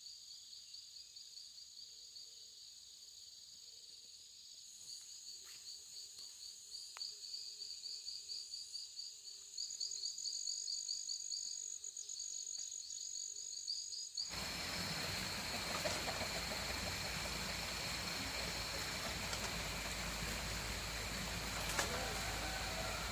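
Insects, likely crickets, chirping in fast pulsing high trills. About two-thirds of the way through, a sudden cut brings in a louder, steady rushing noise, with the high insect drone still above it.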